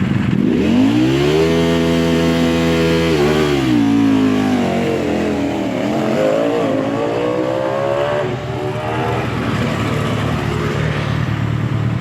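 Sport motorcycle engine revved through its exhaust. It climbs quickly and holds high for about a second and a half, then drops. It revs up and down again, then settles back to a steady idle near the end.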